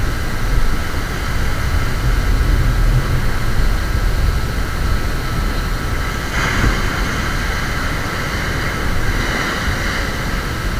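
Ocean surf and wind on the microphone: a steady low rumble under a constant hiss, with a wave breaking and washing in about two-thirds of the way through and another soon after.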